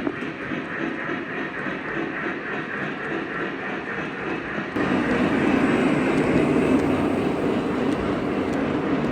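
Model train running along the layout track, a steady rolling sound with a faint regular beat. About halfway through it abruptly becomes louder and fuller.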